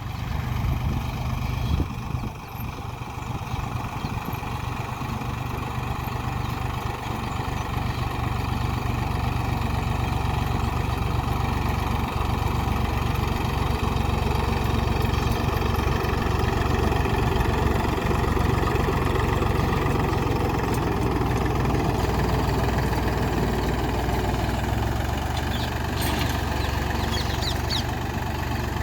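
Mahindra B275 DI tractor's diesel engine running steadily, growing gradually louder through the first half.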